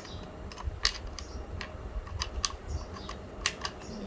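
Small sharp metal clicks and taps at an irregular pace, as the motorcycle mirror's mounting nut and washer are fitted and turned with a spanner, over a low rumble.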